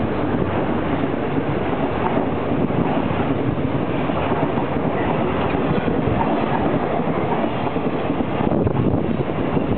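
Freight train's container flatcars passing close by: a steady, loud noise of steel wheels running on the rails as wagon after wagon goes by.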